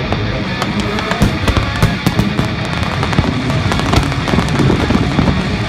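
Fireworks bursting in a rapid, irregular series of sharp bangs and crackles, with loud music playing underneath.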